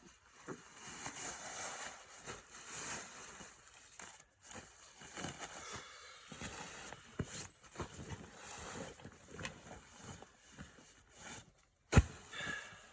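Irregular rustling and crackling, with one sharp knock near the end.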